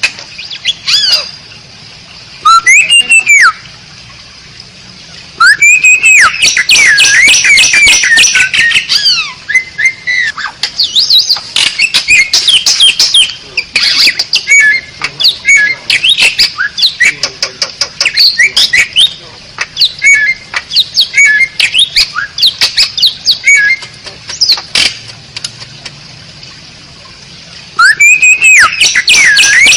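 Asian pied starling (jalak suren) singing loud bursts of varied whistles, chirps and harsh squawky notes that glide up and down in pitch. It falls quiet briefly a few seconds in and again near the end, then starts up again.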